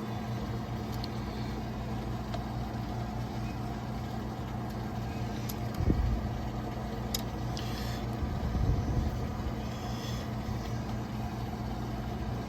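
Steady low machine hum throughout, with a dull knock about six seconds in, another longer one near nine seconds, and a few light clicks.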